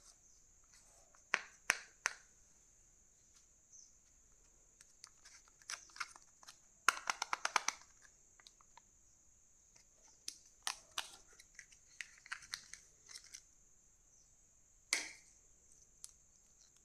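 Crinkling and tearing of Kinder Joy wrappers, with sharp plastic clicks, including a quick run of crackles about halfway through and a single loud click near the end.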